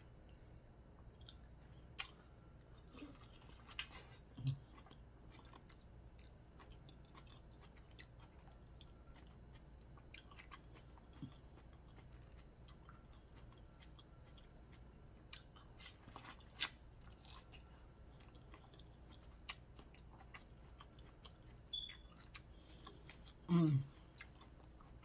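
Close-up eating sounds from a seafood boil: quiet chewing with scattered small clicks and mouth smacks. Near the end comes a short hummed 'mm' of enjoyment, the loudest sound here.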